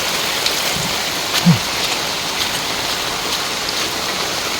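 Heavy rain falling steadily, with scattered sharp drop ticks, likely on an umbrella overhead. A short low sound drops in pitch about a second and a half in.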